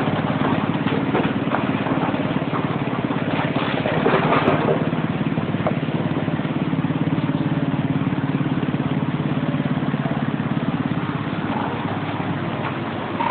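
Tow truck's engine running steadily with a low, even hum, with a brief louder rush of noise about four seconds in.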